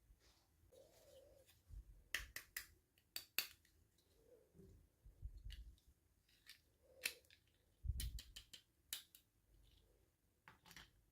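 Quiet handling of toy packaging and small plastic doll parts: scattered sharp clicks and snips, in a cluster about two to three and a half seconds in, another around seven to nine seconds in, and one more near the end.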